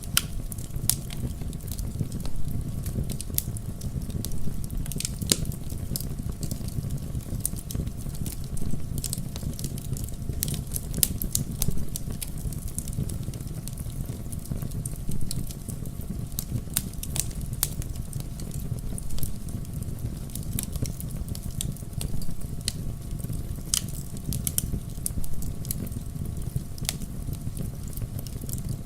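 Wood fire crackling, with frequent sharp, irregular pops over a steady low rumble of the flames.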